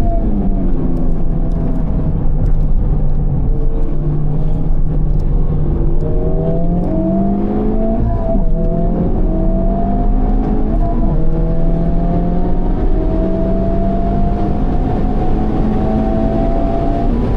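Honda Civic Type R FL5's turbocharged 2.0-litre four-cylinder through a Mugen exhaust, under way at speed. About eight seconds in, the engine note dips briefly, then climbs slowly and steadily again as the car accelerates, over a constant rumble of road and wind noise.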